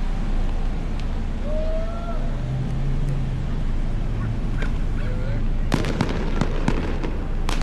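Steady low rumble of traffic and wind noise. About three-quarters of the way in comes a quick string of sharp firecracker pops, with a few more right at the end.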